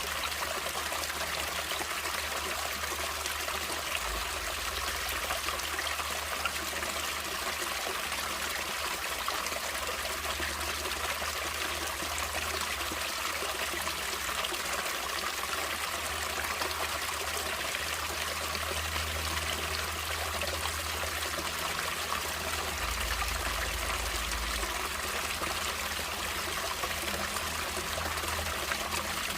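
Water running and trickling in a natural stream, a steady, unbroken flow.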